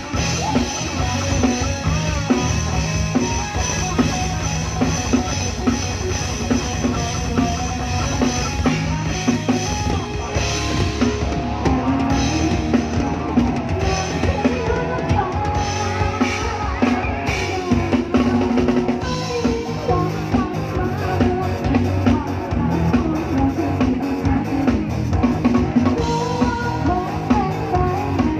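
Live band music with a drum kit playing a driving beat on bass drum and snare, under guitar and other instruments.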